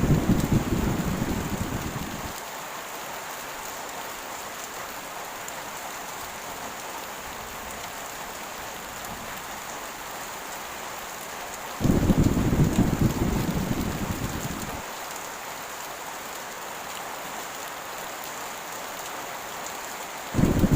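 Heavy rain falling steadily, with rolls of thunder. One rumble is fading away in the first two seconds, another breaks in sharply about twelve seconds in and dies away over some three seconds, and a third starts near the end.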